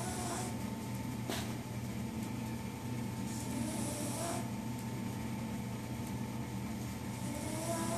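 A sleeping dog snoring: slow breaths about every four seconds, each a hiss with a faint wavering whistle. A single sharp click sounds about a second in.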